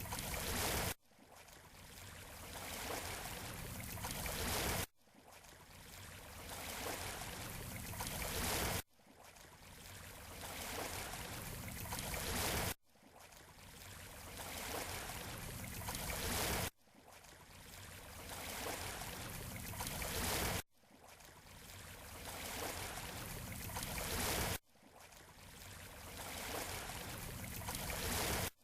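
Rushing surf on a beach shore, each wash swelling over about four seconds and then cutting off abruptly, repeating at even intervals, like a short recording looped over and over.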